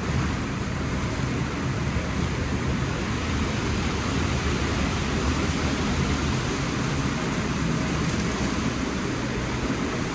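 WashTec SoftCare Pro gantry car wash running with a steady, loud rushing noise over a low rumble.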